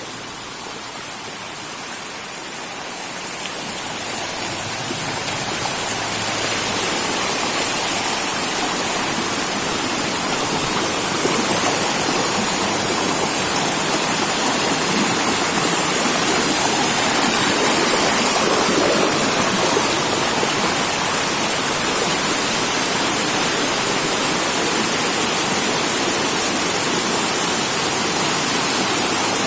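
Steady rushing hiss of heavy rain and running water, growing louder over the first several seconds and then holding steady.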